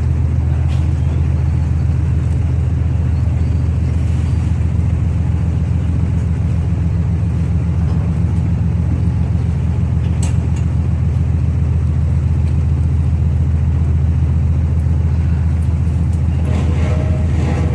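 Steady low drone of a ferry's diesel engines, heavy and unbroken; a few faint clicks and, near the end, some higher tones over it.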